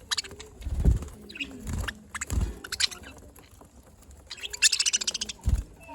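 Budgerigars chirping and chattering in short rapid calls, busiest about four and a half to five seconds in, with a few dull low thumps.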